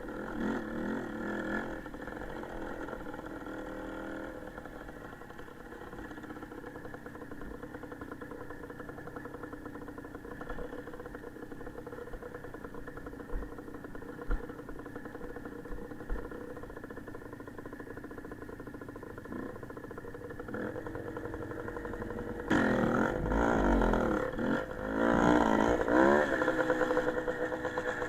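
Motorcycle engine running steadily, then revving up and down more loudly near the end.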